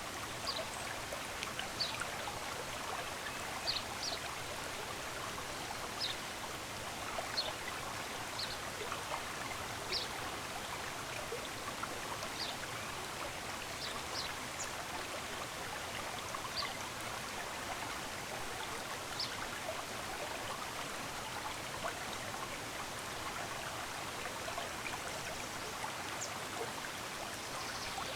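Running water of a stream flowing steadily, with small birds giving short, high chirps every second or two over it.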